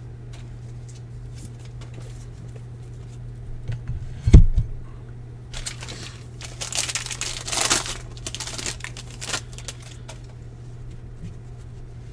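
Plastic wrapper crinkling and tearing in bursts, after a single thump about four seconds in. A steady low hum runs underneath.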